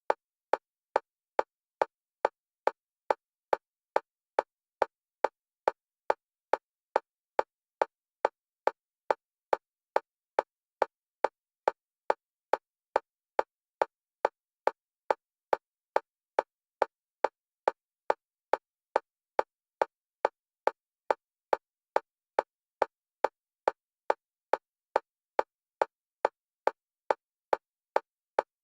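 Electronic metronome clicks, all at one pitch, repeating evenly at a little over two a second. They alternate between the left and right stereo channels, a bilateral stimulation track for EMDR therapy.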